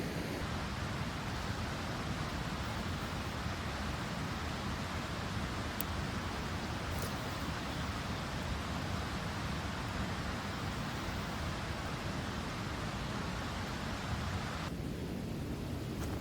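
Steady rushing noise with no distinct events, turning duller near the end when its higher part drops away abruptly.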